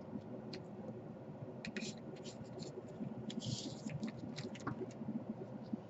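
Light scattered clicks and scratching of hands handling small tools and wires, thickest in the middle few seconds, with a brief hiss about three and a half seconds in.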